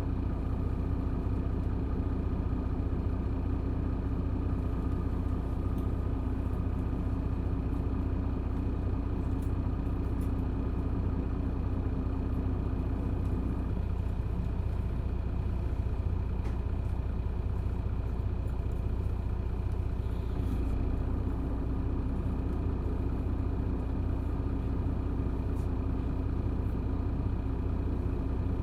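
Isuzu Erga city bus's inline-six diesel engine running steadily, heard from inside the cabin. Its note eases for several seconds midway, then returns.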